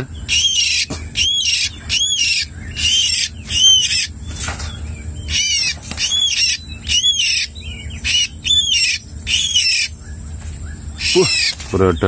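White-rumped shama (murai batu), freshly trapped and held in the hand, calling over and over: high arching notes, about two a second in short runs.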